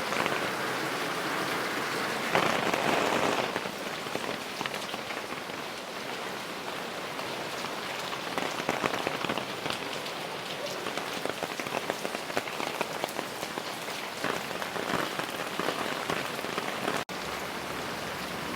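Heavy typhoon rain falling steadily on the street, a dense patter of drops, louder for a moment about two seconds in.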